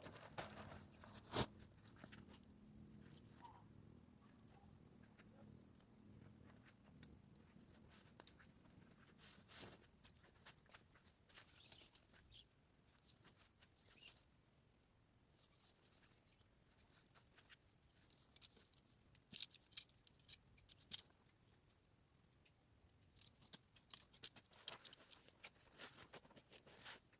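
Insects chirping in a high-pitched, rapidly pulsing trill that comes in clusters and runs on almost without pause, with scattered sharp clicks and taps.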